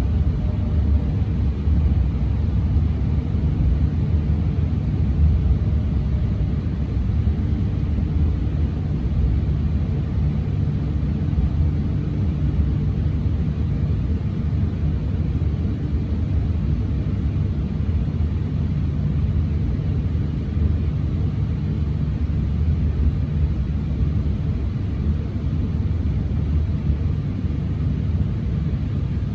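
Steady low rumble of a Shinkansen train running, with no change in level.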